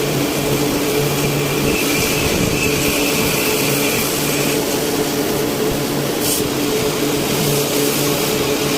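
CNC machine running: a steady mechanical hum and rush, with a higher whine for a couple of seconds near the start and a short click about six seconds in.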